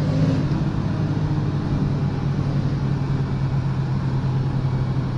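Car engine droning at a steady, unchanging speed, heard from inside the cabin over road and wind noise.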